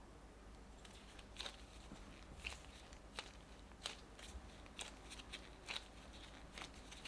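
Scattered soft clicks and crinkles of kitchen things being handled, about ten over a few seconds, over quiet room tone.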